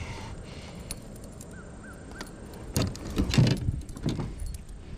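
A few knocks and clatters of handling on a kayak, loudest just past the middle, with three short faint bird chirps a little before them.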